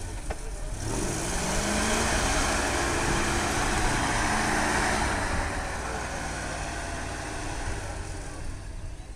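ZIL-131 truck's V8 petrol engine revving up about a second in and running loud under load for a few seconds, then easing off and fading.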